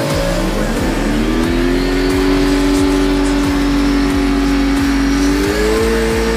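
Drag car engine revving up and holding steady high revs, climbing again about five seconds in.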